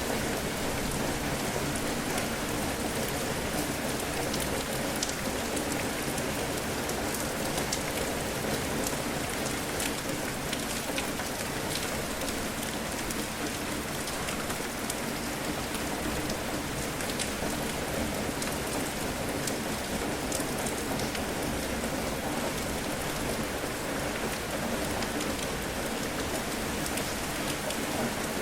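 Steady heavy rain falling, with a dense patter of individual drops striking a surface.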